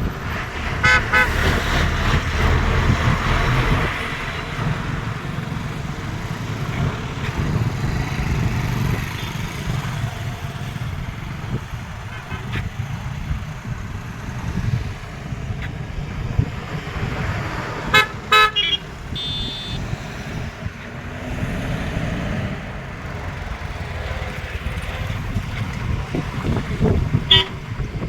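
Road traffic going past, with a steady low rumble and several vehicle horn toots: one about a second in, a pair around eighteen seconds, and one more near the end.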